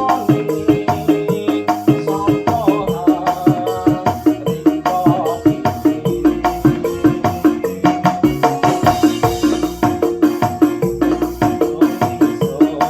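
Arranger keyboard playing an instrumental dangdut koplo accompaniment: a busy, steady drum and shaker pattern of several hits a second under a keyboard melody.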